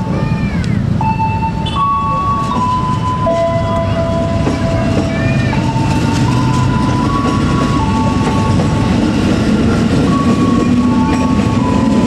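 KAI Commuter electric train passing close by at a level crossing: a steady rumble of wheels and running gear that grows louder near the end, with a low motor hum coming in late. A tune of held high notes plays over it.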